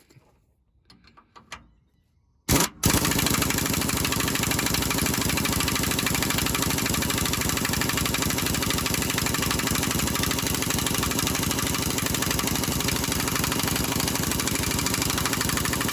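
Impact wrench starting suddenly about two and a half seconds in and running steadily and loudly for about thirteen seconds while it runs a shock-mount bolt down, then stopping abruptly at the end.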